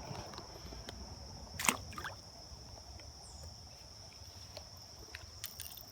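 Small splash about two seconds in as a rock bass is released back into the creek, over low trickling creek water. A steady high insect trill runs underneath.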